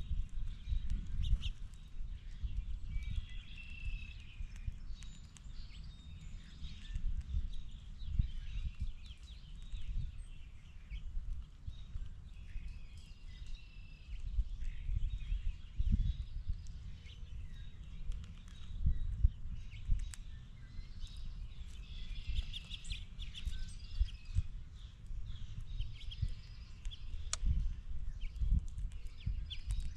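Wild birds chirping and calling on and off over a steady low rumble with frequent short thumps.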